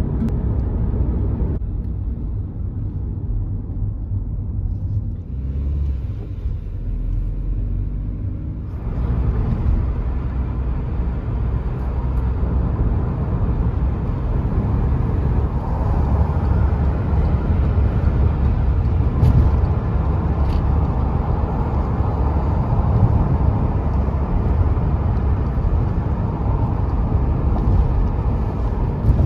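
Low, steady rumble of a moving car, with road and engine noise; it grows louder and hissier about nine seconds in.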